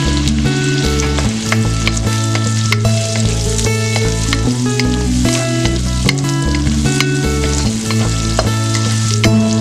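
Chopped red onion frying in hot oil in a wok, a steady sizzle dotted with small pops and crackles. Partway through, a wooden spatula starts stirring and scraping the onion around the pan. Background music plays under it.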